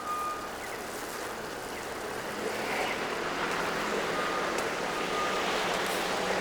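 City street traffic noise, a steady wash that grows louder, with a low engine hum joining about two seconds in. A truck's reversing beeper sounds once at the start and twice more faintly later.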